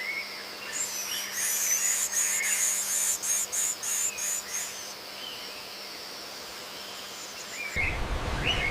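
Birds chirping in short calls, with a very high-pitched, rapidly pulsing rasp through the first half. Near the end a louder hiss of background noise sets in abruptly.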